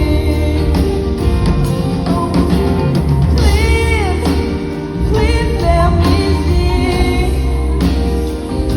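A pop-rock song with a lead singer over a full band backing with guitar.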